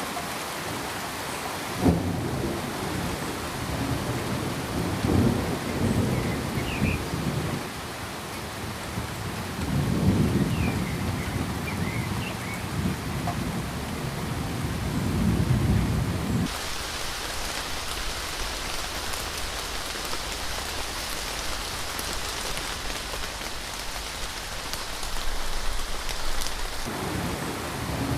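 Steady rain with deep rolls of thunder swelling and fading. About halfway through, the sound changes suddenly to a brighter, hissier rain without thunder, and low rumbles come back near the end.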